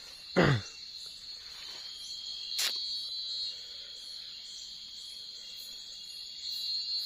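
Steady, shrill chorus of night insects in the forest, swelling near the end. Just after the start comes a short loud sound that drops in pitch, and about two and a half seconds in there is a single sharp click.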